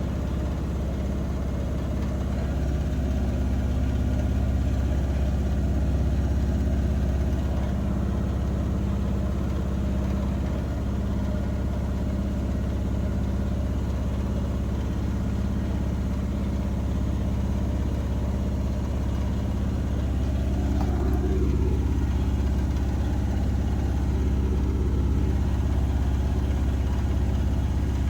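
Bosch washing machine on a spin cycle, a steady low rumble and hum. The drum is running unbalanced, which the owner puts down to the machine's stand needing adjustment.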